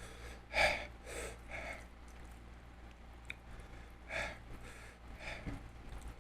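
A person eating seafood close to the microphone: a handful of short mouth noises and breaths, the loudest about half a second in, over a low steady hum.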